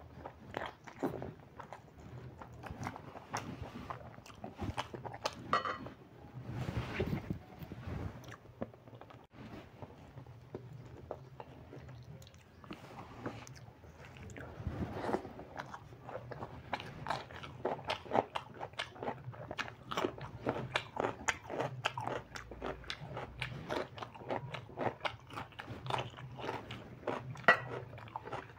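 Close-up eating sounds of a man chewing rice and desi chicken curry eaten by hand: a steady run of small wet clicks, smacks and bites.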